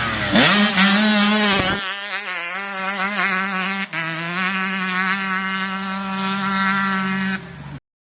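Dirt bike engine running at high revs: the pitch dips and climbs back in the first two seconds, then holds steady for several seconds before falling and cutting off abruptly near the end.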